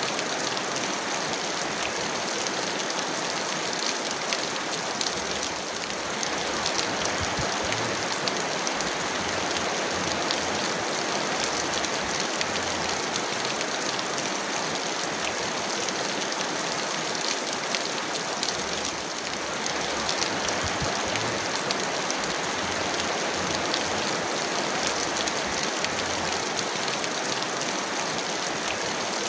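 Heavy rain falling steadily: a dense, even hiss of rainfall peppered with countless fine drop ticks, easing very slightly for a moment twice.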